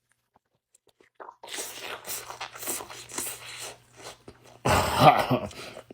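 Crunching and rustling as a jerk chicken sandwich with bacon is bitten into and chewed, starting about a second and a half in.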